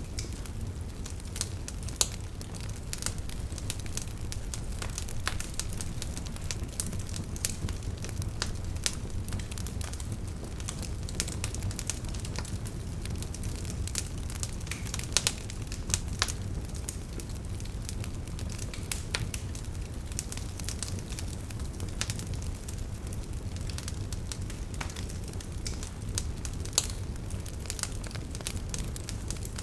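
Fireplace fire crackling: scattered sharp pops and snaps, a few louder than the rest, over a low steady rumble.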